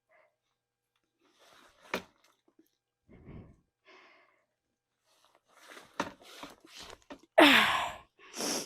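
A person breathing hard from exertion in short gasps and breaths, ending in a loud voiced exhale that falls in pitch, like a sigh or grunt. A sharp single knock about two seconds in.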